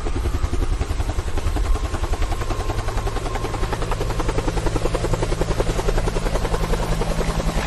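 Helicopter rotor chopping in a rapid, even beat over a steady low hum.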